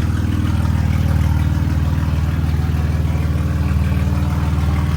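BMW M3 F80's twin-turbo inline-six idling steadily through an exhaust with the mufflers removed, giving a deep, throaty note.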